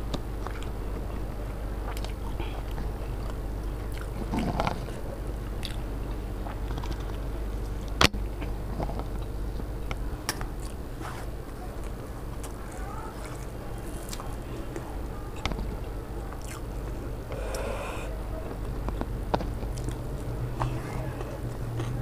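Close-up eating sounds: chewing and biting on aloo chop and ghugni muri (peas curry with puffed rice), with scattered sharp clicks, the loudest about eight seconds in, over a steady low hum.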